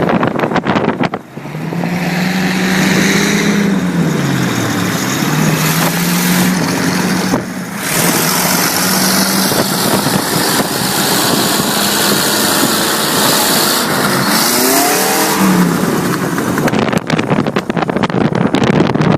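Classic 1950s car engine revving while cruising. Its pitch rises, drops about four seconds in and then holds steady, with a further rise and fall near the end, over loud wind and road rush.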